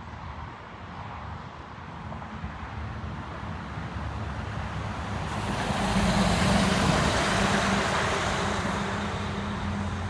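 Jet airliner passing close by: the roar of its engines builds steadily, is loudest about six to seven seconds in, then begins to fade.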